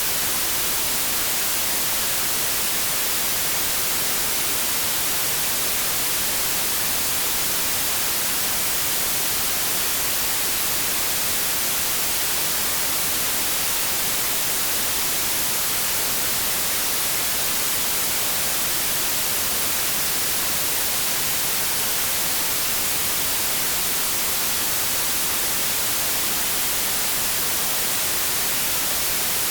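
Continuous synthetic white noise: an even, unbroken hiss, strongest in the high frequencies, at a steady level.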